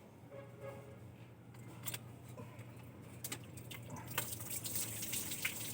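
A few sharp clicks, then a steady hiss that starts about four seconds in, over a low steady hum.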